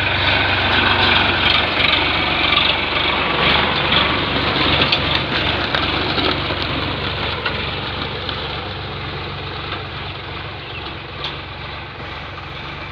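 Sonalika DI-42 RX tractor's diesel engine running steadily while pulling a 12-disc harrow through a field, growing gradually quieter over the second half.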